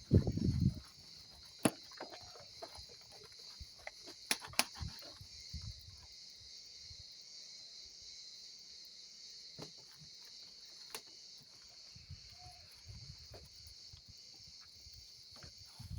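Crickets chirping steadily in the background, with scattered sharp clicks and light knocks from the plane being handled, and a brief low rustle right at the start.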